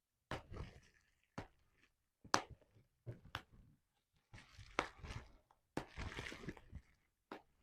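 Bubble wrap being popped by hand: sharp pops about once a second, each followed by crinkling of the plastic sheet.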